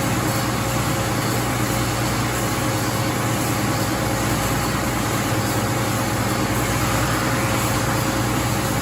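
Sandingmaster SCSB-2 900 dual-head wide belt sander running steadily: a constant hum under an even rushing noise.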